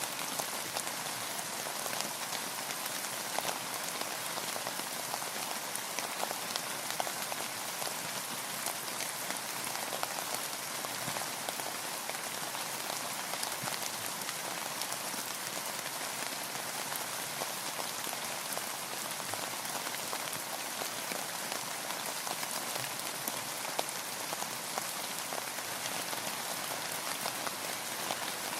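Steady rain falling on a boat, a constant hiss with many small drops ticking on the surface.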